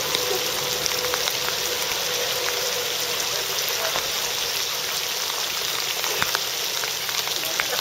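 Steady hiss of water in a flood, with a few faint ticks scattered through it.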